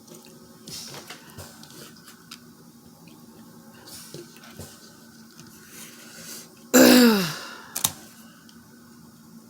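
Quiet crab-leg eating, with scattered small clicks and cracks of shell being handled and broken. About seven seconds in comes a short, loud throat sound that falls in pitch.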